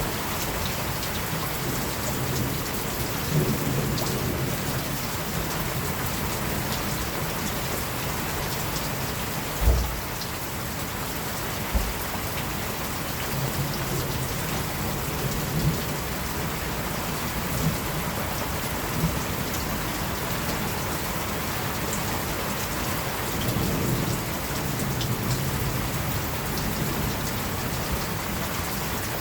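Steady rain falling on surfaces, with distant thunder rumbling low several times. A short low thump about ten seconds in is the loudest moment, with a smaller one about two seconds later.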